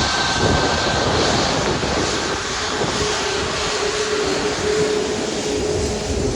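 Jet aircraft engines running loud and steady, a full rushing noise with a steady tone coming in about halfway through.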